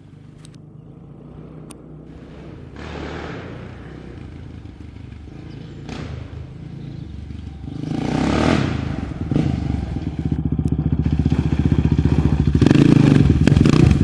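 KTM Rally 660's single-cylinder four-stroke engine running. It swells in three surges, about three, eight and thirteen seconds in, and is markedly louder from about halfway on, with its firing pulses clearly heard near the end.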